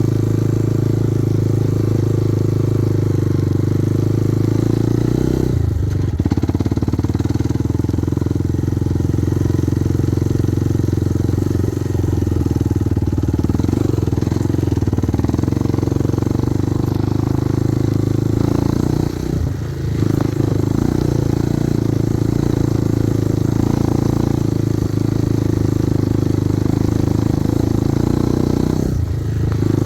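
Kovi Advance 250 motorcycle engine running steadily while riding. Its note dips briefly about six seconds in, again around two-thirds of the way through, and near the end.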